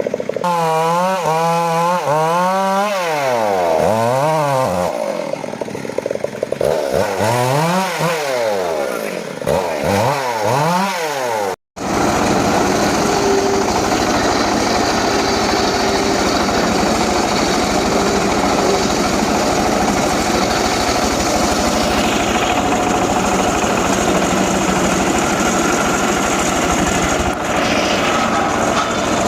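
Stihl two-stroke chainsaw revving up and down several times, its pitch rising and falling. After a sudden break about 12 seconds in, it runs steadily at high speed.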